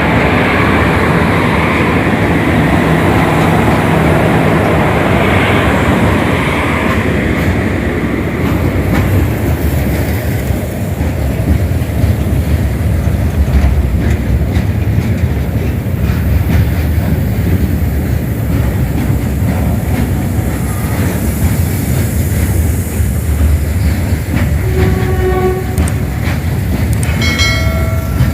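Indian Railways freight train passing close, its wagons running over the rails with a steady rumble and clatter. Near the end, two short horn notes sound at different pitches.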